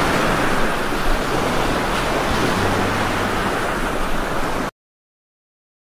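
Heavy rain falling steadily, a dense even hiss that stops abruptly near the end.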